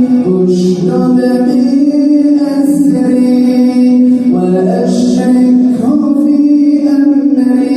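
Quran recitation in a man's melodic tajweed style, with long drawn-out notes that step up and down in pitch.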